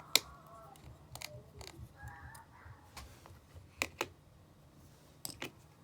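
Small sharp clicks and taps of hand tools and tiny parts on an iPhone 5 being taken apart: one loud click right at the start, then a handful of scattered lighter clicks, two close pairs among them.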